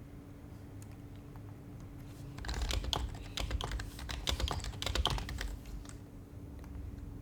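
Typing on an HHKB Professional Hybrid Type-S keyboard with silenced Topre keys: a few scattered keystrokes, then a quick run of keystrokes lasting about three seconds from a little past two seconds in, thinning out after.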